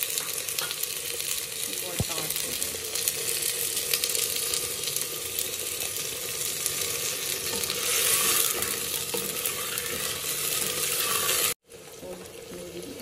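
Raw chicken pieces sizzling in hot oil with fried onion and garlic in a clay handi, stirred with a spoon. The sizzle swells about eight seconds in, breaks off abruptly near the end, then goes on more quietly.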